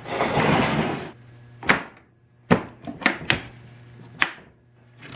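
About a second of rubbing, then a series of sharp knocks and clicks as wooden machinist-chest parts are handled and set in place.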